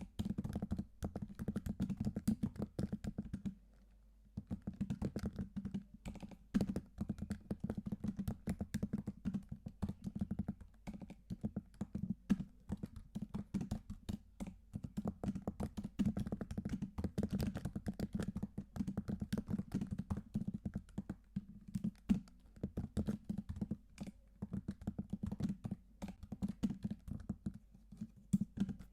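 Typing on a computer keyboard: a fast, dense run of key clicks, with a short pause about four seconds in.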